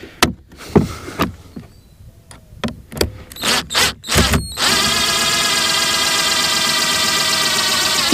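Scattered clicks and knocks of hand work on a part. About four and a half seconds in, a loud, steady, high-pitched mechanical whine starts and runs unbroken.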